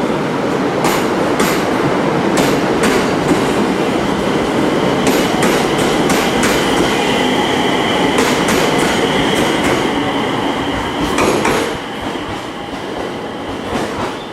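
A train running on jointed track, its wheels clicking over the rail joints in quick pairs, with a steady high whine through the middle few seconds.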